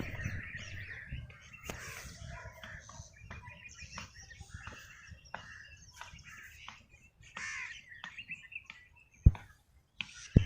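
Several birds chirping and calling in trees, in short scattered notes. A single sharp thump stands out about nine seconds in.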